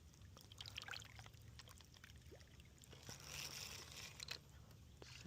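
Faint trickling, dripping water with a few light clicks, quiet overall.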